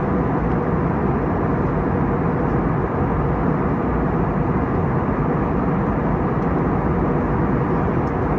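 Steady cabin noise inside an Airbus A321neo with Pratt & Whitney geared turbofans: an even rush of engine and airflow noise at constant level, with a faint steady hum.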